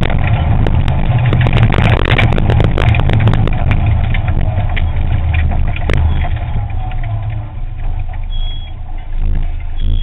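Onboard sound of a Ford Fiesta ST rally car's engine running hard, with many sharp clicks and rattles through the car for about the first four seconds. The engine then eases off and gets steadily quieter over the last few seconds as the car slows, with one sharp knock about six seconds in.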